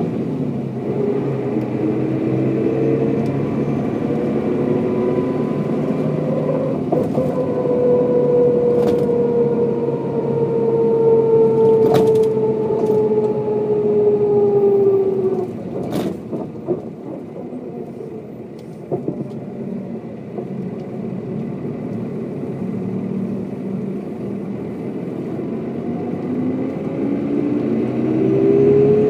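Mercedes-Benz O407 city bus's diesel engine under way, heard from the passenger compartment. The engine pulls with its note slowly falling, drops away quieter about halfway with a couple of knocks, then the revs climb again near the end as the bus accelerates.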